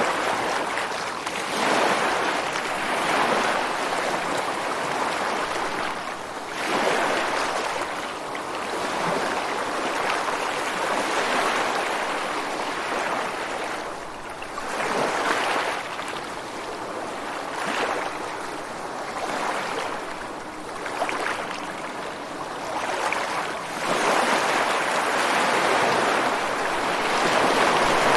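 Ocean waves breaking and washing against rocks on the shore, a continuous rush of surf that swells and eases every few seconds, building up near the end.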